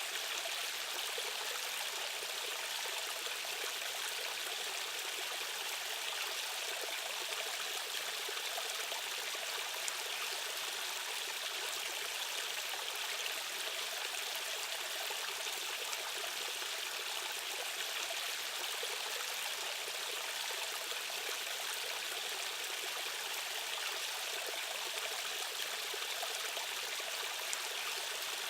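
Stream water rushing and trickling steadily over rocks in an even, unbroken hiss.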